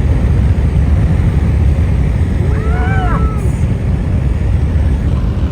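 Steady low road and engine rumble inside a moving car, with a short drawn-out vocal exclamation that rises and falls in pitch about three seconds in.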